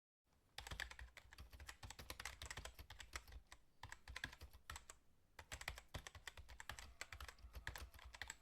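Faint keyboard typing sound effect: rapid, irregular key clicks starting about half a second in, with brief pauses about four and five seconds in.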